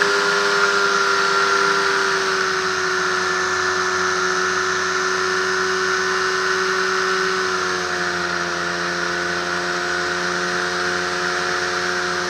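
Microlight trike's Rotax engine and propeller running steadily under a broad rush of noise. The engine note sags slightly, then shifts to a different pitch about two-thirds of the way through.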